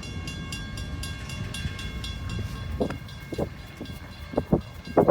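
Freight train cars rolling past with a low rumble and a steady clickety-clack of wheels over the rail joints. About three seconds in the rumble eases, and a few sharp, loud knocks follow near the end.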